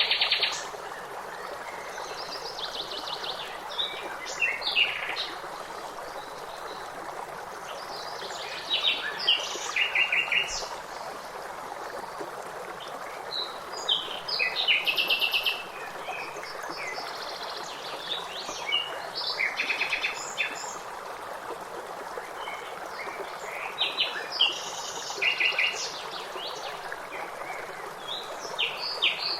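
Songbirds singing short phrases of quick repeated notes every few seconds, over the steady sound of a running stream.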